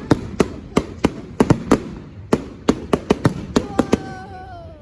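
Display fireworks going off in a rapid, irregular volley of sharp bangs, more than a dozen in a few seconds, with a short falling whistle near the end.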